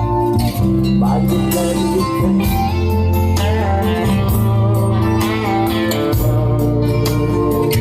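Band music without vocals: a guitar-led instrumental passage over steady bass notes and drums.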